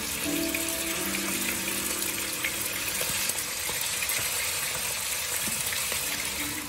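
Sliced beef frying in hot oil in a wok: a steady, dense sizzle. Background music plays softly for about the first second.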